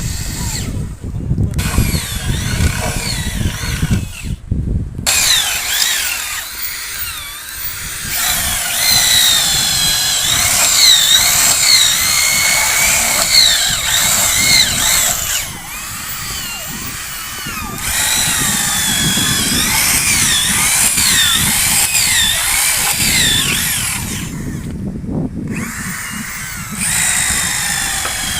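Electric drill running in long stretches, its whine wavering up and down in pitch, with short pauses. A low rumble like wind fills the first few seconds.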